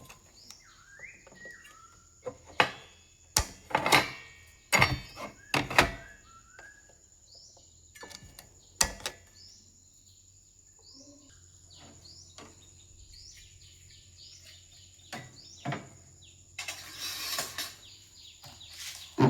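Irregular sharp clicks and knocks, loudest in a cluster about three to six seconds in, with short bird chirps between them and a brief rustling near the end.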